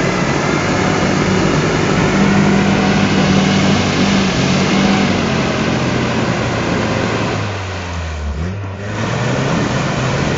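Toyota truck on 31-inch Super Swamper Bogger mud tires, its engine held at high revs in second gear while the tires spin and churn through a mud hole, throwing mud. The revs sag briefly about eight seconds in, then pick back up.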